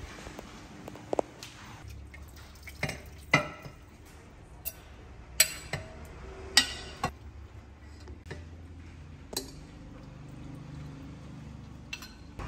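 Metal ladle clinking against a ceramic bowl and a stainless steel pot as soup is ladled into the bowl, with liquid dripping and pouring. The clinks come singly, a dozen or so spread unevenly.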